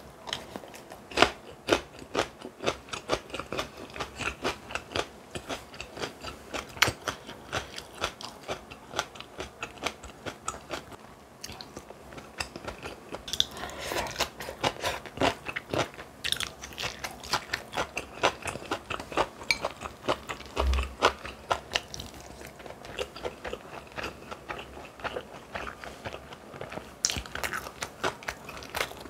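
Close-miked chewing and crunching of food, with many quick, irregular crunches and bites.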